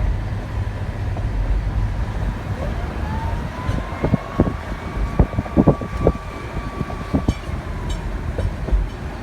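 Boat engine running with a low rumble; about three seconds in its whine rises in pitch, holds steady for about four seconds, then falls away, with a series of sharp knocks partway through.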